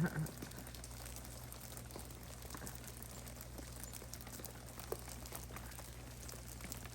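Melting ice dripping and falling from ice-coated tree branches, scattered faint ticks and patters with a sharper tick about five seconds in, over a steady low hum.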